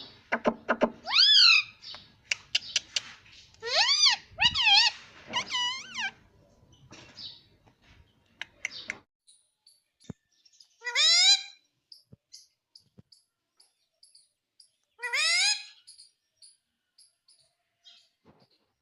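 Pet ring-necked parakeet calling: a run of squawks and chatter over the first nine seconds. Then come two loud, sharp squawks about four seconds apart, with faint high chirps between them.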